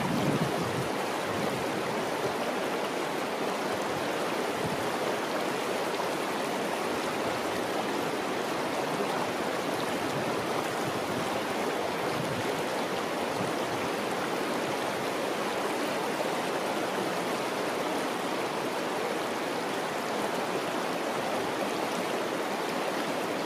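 Steady rushing of flowing water, like a stream, holding an even level throughout.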